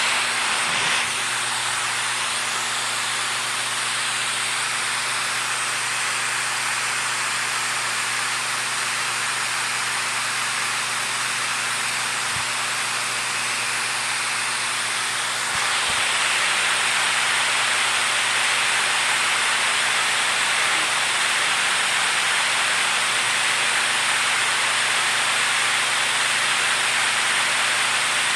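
Flowing water rushing steadily as an even hiss, growing a little louder about halfway through.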